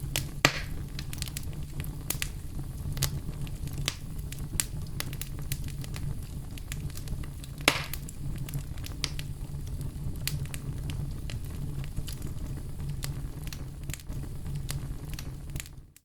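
Wood campfire burning with a steady low rumble and constant crackling, with two louder pops, one about half a second in and one about eight seconds in. The sound cuts out briefly at the very end.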